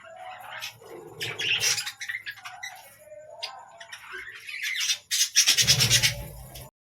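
Budgerigar giving repeated harsh squawks and chattering calls, with a louder burst near the end that cuts off abruptly.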